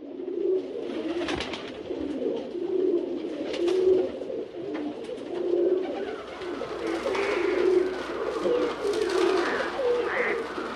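Pigeons cooing over and over, with short higher chirps from other birds joining in about two-thirds of the way through.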